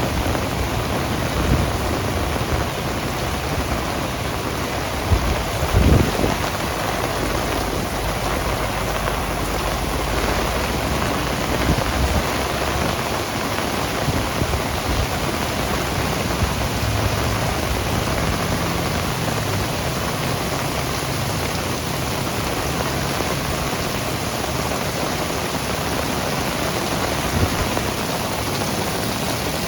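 Heavy rain pouring steadily in a thunderstorm, with a short low thump about six seconds in.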